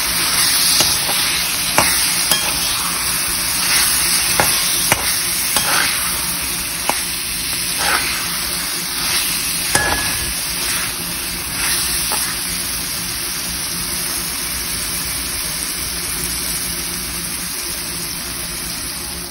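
Chicken masala sizzling in a pan while a metal spatula stirs it, scraping and knocking against the pan. The scrapes and knocks come through roughly the first twelve seconds, then a steady sizzle.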